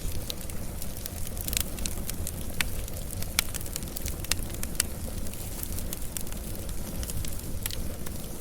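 Wood fire crackling, with irregular sharp pops over a steady low rumble of the flames; a few louder pops come in the first half.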